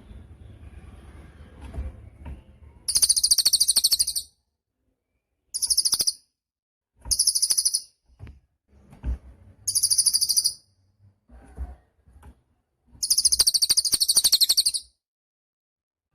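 A cililin songbird singing loudly: five high, rapid trilling phrases, each under two seconds, the last and first the longest, separated by short pauses with faint low rumbles and clicks between.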